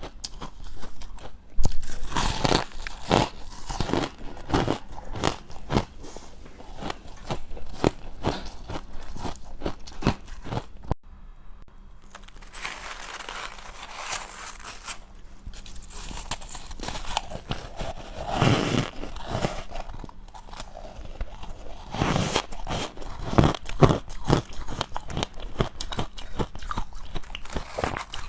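Close-miked biting and chewing of dry, powdery freezer-frost ice: crunch after crunch in quick, uneven runs, with a short lull about eleven seconds in and a few louder bites later.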